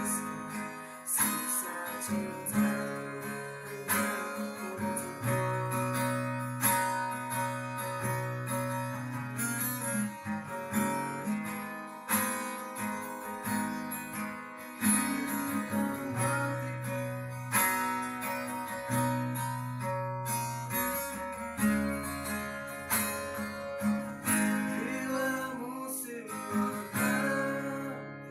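Acoustic guitar played with strummed chords and plucked notes in a steady rhythm, fading away near the end.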